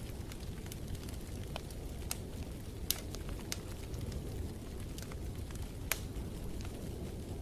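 Wood fire burning in a fireplace: a steady low rumble with scattered sharp crackles and pops, the two loudest pops about three seconds and six seconds in.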